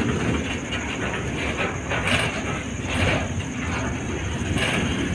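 Freight train of flat wagons rolling past: a steady rumble of steel wheels on the track, with a few louder clacks.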